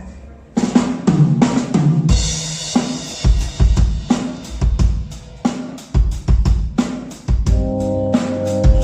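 Instrumental intro of a rock song: a drum kit plays a steady beat of bass drum and snare, with a cymbal wash from about two seconds in. Held keyboard-like chords join near the end.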